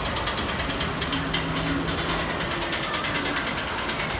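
Gladiator/Blizzard Turbine fairground ride running, a steady mechanical din with rapid, even clattering ticks.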